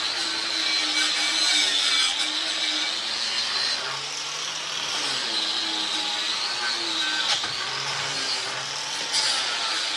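Angle grinder fitted with a surface preparation pad, scouring rust scale off a steel fuel tank strap; the motor's pitch wavers up and down as the pad is pressed on and eased off.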